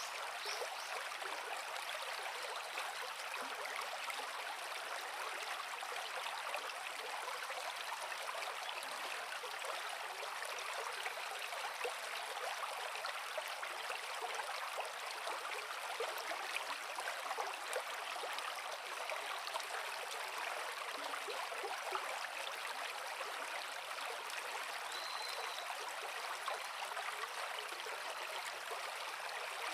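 Creek water flowing over rocks, a steady, even rush with no low rumble.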